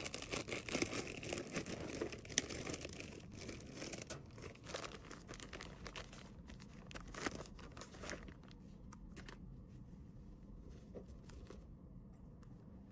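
Crinkly packaging rustling and crackling as an item is handled and packed. It is busy for the first several seconds, then thins to a few scattered light clicks and rustles.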